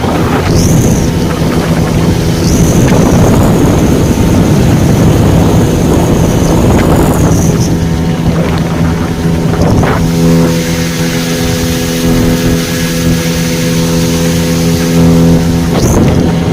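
Speedboat engine running steadily at speed, with water rushing and wind on the microphone. A few louder surges of rushing noise come through, and the engine's tone runs steadier over the later part.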